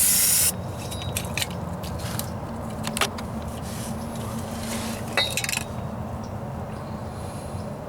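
Aerosol spray can of primer hissing in a burst that cuts off about half a second in, followed by scattered clicks and knocks and a short hiss about five seconds in.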